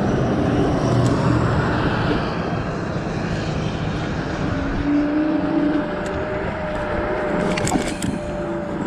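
Wind buffeting the microphone, with road noise, while riding a Kaabo Wolf GT Pro electric scooter. A steady high tone joins about halfway through.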